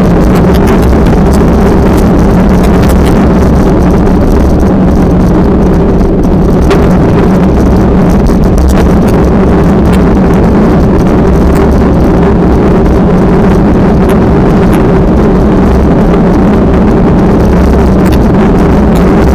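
Heavy wind rumbling on the microphone over a steady engine drone, unbroken throughout.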